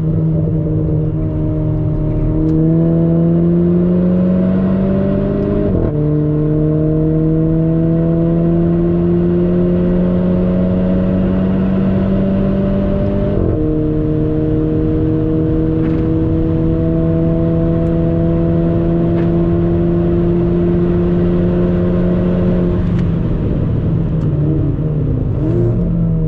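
Renault Clio 4 RS's turbocharged 1.6-litre four-cylinder engine pulling hard, heard inside the cabin: the pitch climbs steadily and drops sharply at two quick upshifts, then the engine eases off near the end. Tyre and road noise runs underneath.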